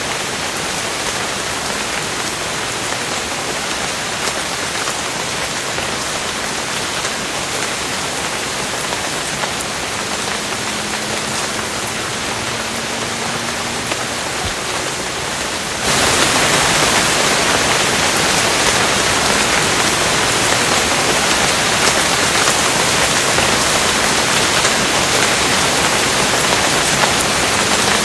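Steady heavy rain, an even dense hiss of falling drops. About sixteen seconds in it jumps abruptly to louder, brighter rain, as at a cut between recordings.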